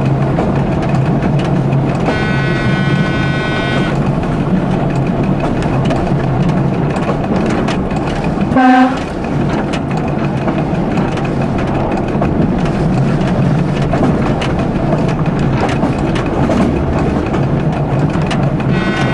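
A train running, heard from the driver's cab, with steady engine and rail noise. A high-pitched tone sounds for about two seconds near the start, and a short horn blast comes a little before halfway.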